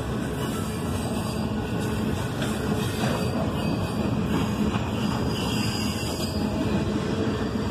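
Double-stack container well cars of a freight train rolling past, the steady noise of steel wheels running on the rails.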